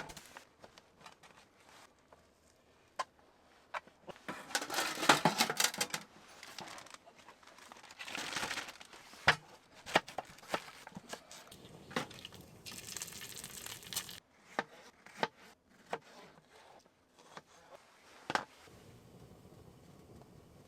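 Crinkly packaging being handled and rustled in several bursts of a second or two, with scattered sharp clicks and knocks of things being picked up and set down.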